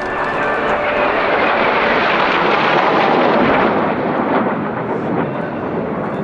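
Fixed-wing aircraft flying past. Its noise builds to a peak about three seconds in, then drops in pitch and fades as it moves away.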